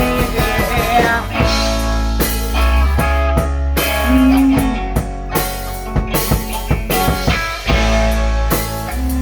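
Rock music instrumental passage: electric guitar with drum kit and bass, no singing.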